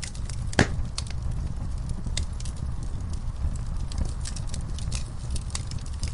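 Wood fire in a fireplace crackling: irregular sharp pops and snaps over a steady low rumble of the flames, with one loud pop about half a second in.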